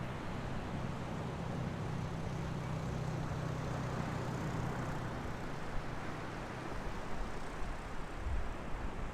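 Ocean surf washing steadily on the shore, with a low engine drone from a passing motor that fades away over the second half.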